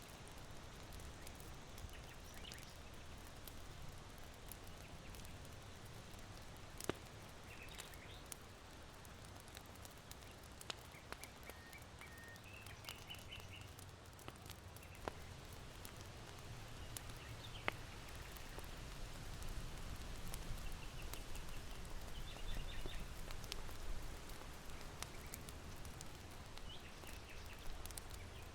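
Small birds chirping in short, scattered calls over a low, steady wind, with a few sharp pops from the charcoal fire in an irori hearth.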